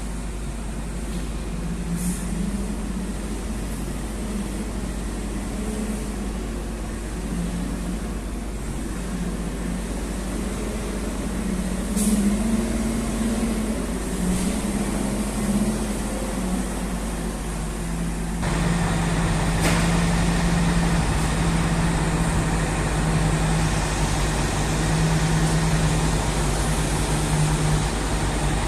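Heavy off-road dump truck's diesel engine running under load, its drone wavering in pitch, then becoming abruptly louder and steadier about two-thirds of the way through. A few short, sharp sounds stand out over it.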